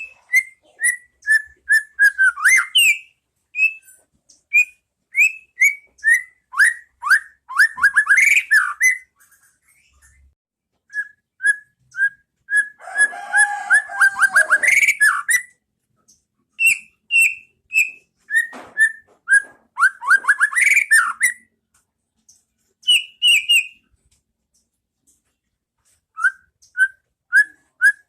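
White-rumped shama (murai batu) singing: loud, clear whistled notes repeated about twice a second, running into fast, dense phrases, with a harsher chattering passage about halfway through and a few short pauses between phrases.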